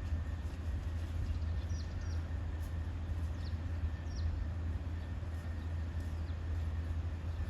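Steady low rumble of outdoor background noise, with a few faint, short, high chirps scattered through the first half, like small birds.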